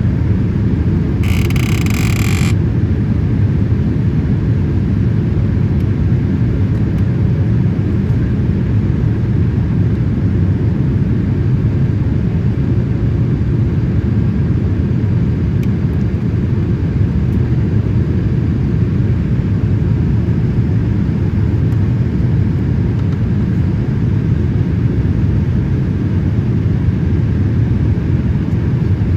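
Boeing 787-8 cabin noise: a steady low rumble of engine and airflow, heard from a passenger seat. About a second in, a brief higher-pitched sound lasts about a second.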